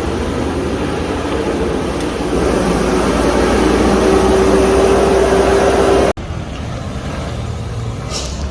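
Heavy vehicle's engine running under load, growing louder with a steady droning tone, then cut off abruptly about six seconds in and replaced by quieter engine and road noise.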